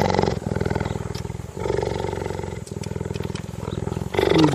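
Cheetah giving a long, low, fast-pulsing rumble with short breaks, growing louder near the end.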